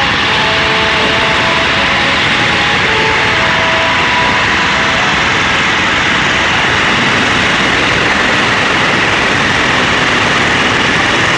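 Pulling tractor's engine running loudly and steadily, with no clear rise or fall in pitch.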